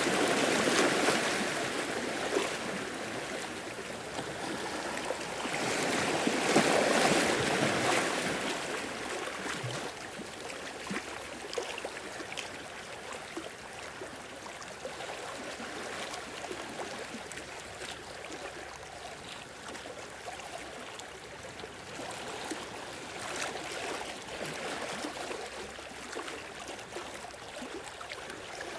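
Sea waves washing in and draining back, swelling at the start, again about six seconds in and once more near the end, with trickling, crackling water in the quieter spells between.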